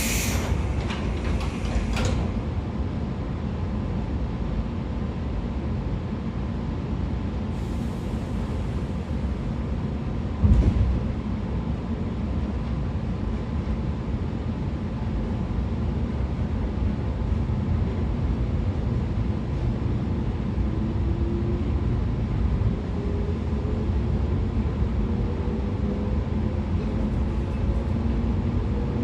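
113 series electric train's MT54 DC traction motors and running gear: a steady rumble with one sharp thump about ten seconds in, then a motor whine rising in pitch through the last third as the train picks up speed.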